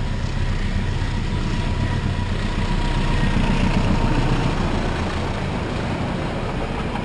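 A diesel locomotive hauling a passenger train passes close by: its engine runs as it approaches, then the coaches rumble steadily along the track. The sound is loudest a little past halfway.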